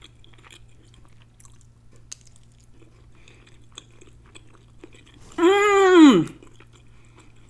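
A woman chewing a mouthful of rice and peas, with faint wet mouth clicks. About five and a half seconds in comes a loud appreciative "mmm" lasting about a second, its pitch dropping away at the end.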